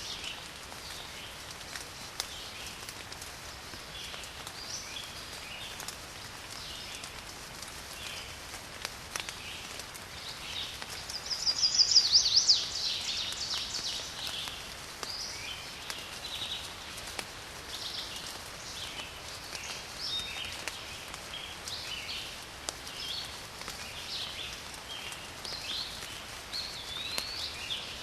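Garden birds chirping and calling over a steady hiss of rain, with a loud, rapid trill a little under halfway through.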